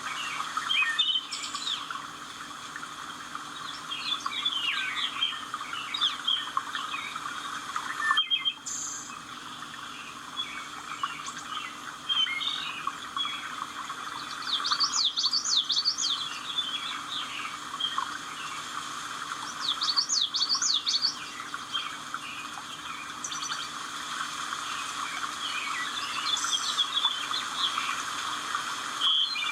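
Several wild birds chirping and trilling, with quick runs of rising and falling notes, over a steady hiss. The sound drops out briefly a few times.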